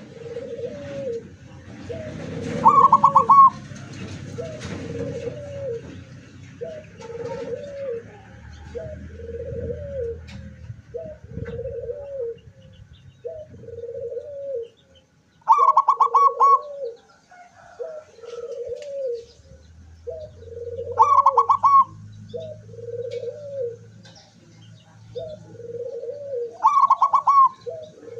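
Zebra doves cooing: a steady series of short, low coo notes about one every second and a bit. Four times, a louder, higher, rapidly pulsed phrase cuts in over them.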